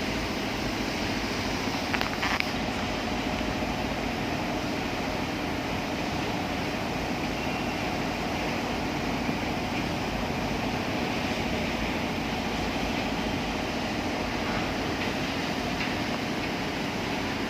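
Steady construction-site machinery drone with hiss, and a few light knocks about two seconds in.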